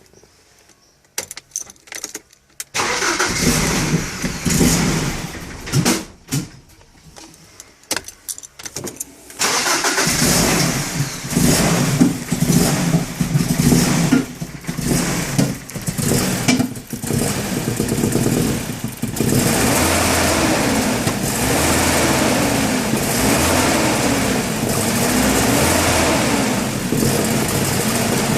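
BMW E30 318is's M42 four-cylinder engine starting, uneven and stumbling for the first several seconds. It then runs at a rough idle whose note wavers up and down about every second and a half. The idle control valve has been cleaned and the crank position sensor changed, and the owner wonders whether a coil pack is at fault.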